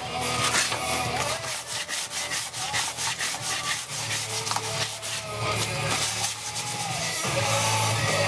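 Rapid back-and-forth sanding strokes, about four a second, strongest in the first half, with rock music playing underneath.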